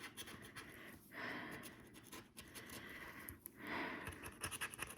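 A scratcher tool scraping the coating off a lottery scratchcard, faintly, in a few short spells of rubbing with pauses between.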